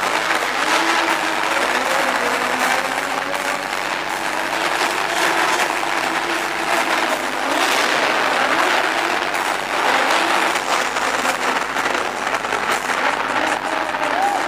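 Two drift cars running a tandem drift: engines revving up and down under a constant hiss of tyre noise.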